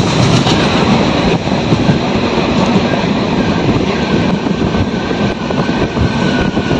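Indian express passenger train running along the track, heard from inside a general-class coach: a steady, loud running noise of wheels and rails. A faint high whine holds for a few seconds in the second half.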